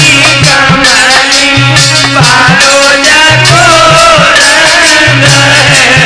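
Instrumental interlude of a North Indian folk malhar: a wavering melodic lead over repeated drum strokes and steady percussion.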